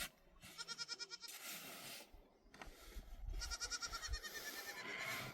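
Goat bleating twice, each call a quavering cry about a second long.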